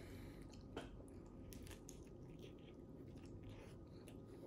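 Faint sounds of a person biting into and chewing a taco: scattered soft mouth clicks and crunches over low room tone.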